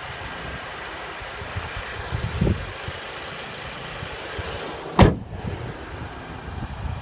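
A 1.8-litre TFSI turbocharged four-cylinder idling steadily, then about five seconds in a single loud slam as the hood is shut.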